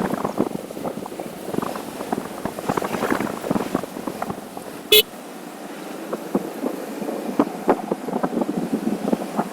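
Wind buffeting and crackling on the microphone of a moving motorcycle, with one short horn beep about five seconds in.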